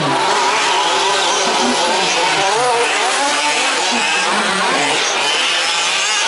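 Several 1/5-scale radio-controlled 4WD trucks racing, their small two-stroke petrol engines buzzing together and rising and falling in pitch as throttles open and close.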